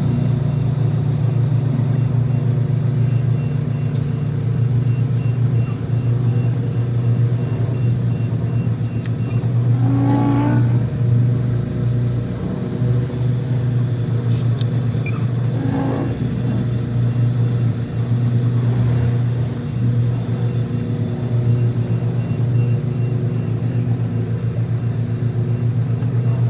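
Semi-truck diesel engine running with a steady low drone, with two short sounds at about ten and sixteen seconds in.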